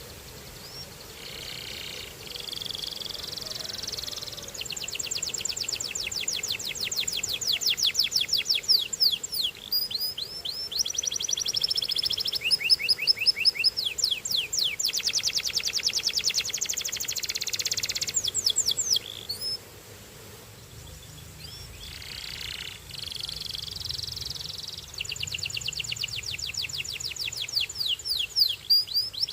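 Domestic canary singing: a song of fast, evenly repeated trills, each run of notes held for a second or two before switching to a new phrase. The song breaks off for about two seconds past the middle, then resumes.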